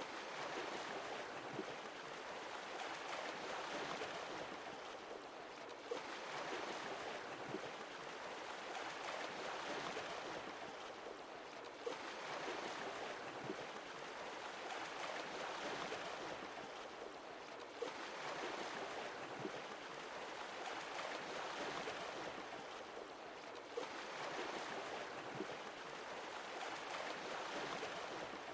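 Sea waves washing in and drawing back, one wave about every six seconds, each starting with a small splash.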